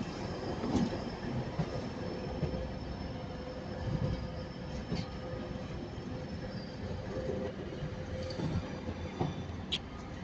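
A train moving at the platform: a steady rumble with one held tone running through it, and a few light knocks.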